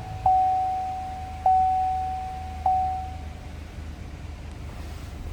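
2014 Chevrolet Silverado 1500's dashboard warning chime dinging three times, about one ding every 1.2 seconds, each ding fading, then stopping. The engine idles underneath with a steady low hum.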